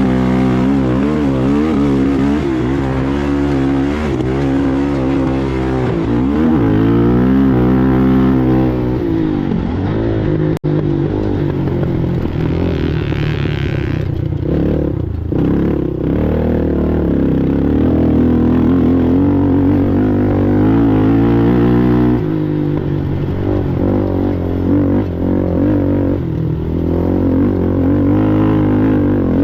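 ATV engine running hard in a race, its pitch rising and falling as the throttle opens and closes. There is a very brief dropout about ten seconds in, and a stretch of hiss a couple of seconds later.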